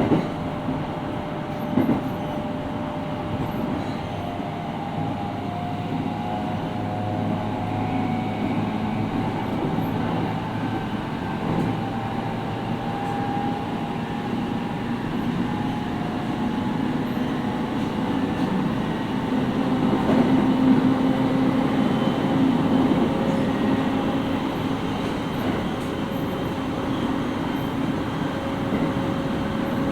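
Interior running sound of a JR East 701-series 5500-subseries electric train's motor car, wheels rolling on rail with a steady motor whine. Two sharp clacks come near the start, and the noise swells about twenty seconds in.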